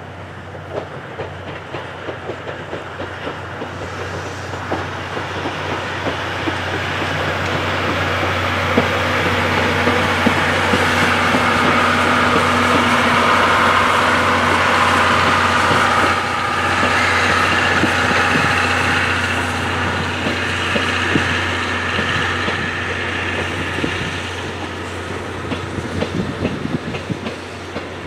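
Chichibu Railway 7500-series electric train running into the station, its wheels clacking over the rail joints and growing louder to a peak around the middle, with high squealing tones after the peak. Near the end more wheel clacking comes in with the arriving C58 steam-hauled train.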